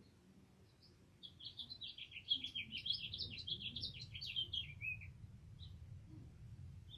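A songbird sings one rapid phrase of quick, up-and-down chirping notes lasting about four seconds, starting about a second in, with a few single chirps just before and after. A steady low background noise runs underneath.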